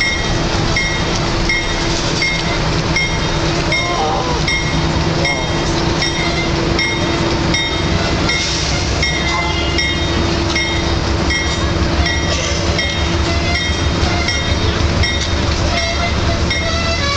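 Canadian Pacific Holiday Train's lit boxcars rolling past at slow speed, a steady rumble of wheels on rail. A bell-like ding repeats evenly about two and a half times a second throughout.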